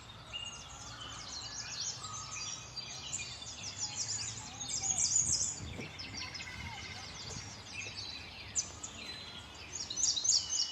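Many small birds chirping and calling at once, a dense, continuous chorus of short, high chirps and trills.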